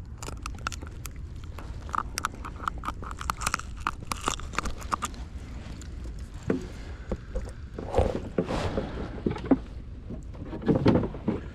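Rapid clicking and knocking on a plastic fishing kayak, with a few heavier thumps later on, typical of gear and a freshly caught fish being handled aboard.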